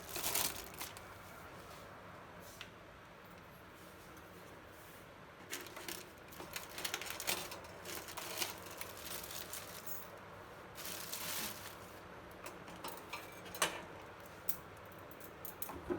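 Faint, intermittent rustling and sharp clicks of packaging and oven parts being handled during unboxing, with a few louder rustles partway through and near the end.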